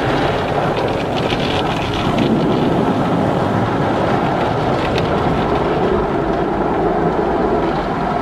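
Automatic car wash running: a steady, dense rush and rumble of spraying water and machinery, with a few faint ticks.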